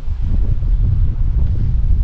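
Wind buffeting the microphone: a loud, uneven low rumble with no clear sound beneath it.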